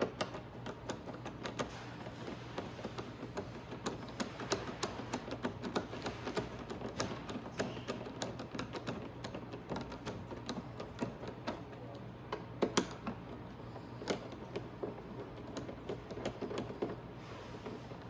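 Irregular small metallic clicks and taps of a number 5 Allen key being turned and re-seated in a motorcycle mirror's mounting bolts as they are threaded in, with one sharper click about three-quarters of the way through, over a steady low hum.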